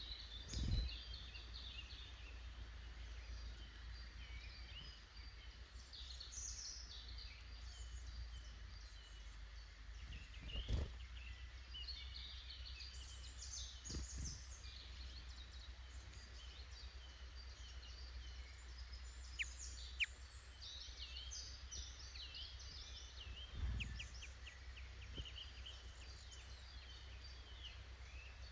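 Woodland songbirds calling and singing, many short overlapping chirps and trills, over a faint low hum. Three dull low thumps break in: one near the start, one about a third of the way in, and one past the middle.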